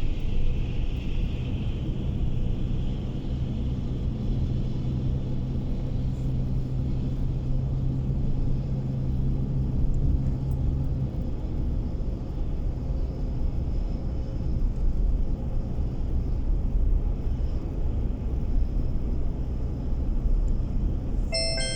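Car cabin road noise while driving: a steady low rumble from the tyres and engine, with a low drone that fades out about halfway through. Near the end a short electronic chime sounds, the car navigation's cue before a spoken direction.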